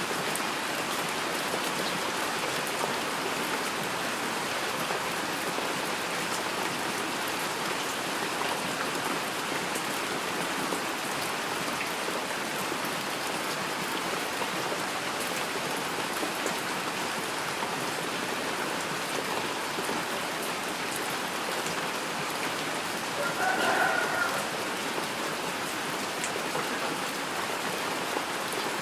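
Steady rain falling on surfaces: an even hiss with scattered drops. About 24 seconds in, a brief pitched sound rises over the rain.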